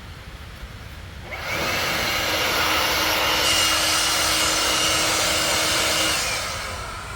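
A motor-driven tool running for about five seconds: a loud rushing hiss with a faint steady whine, starting about a second and a half in and dying away near the end.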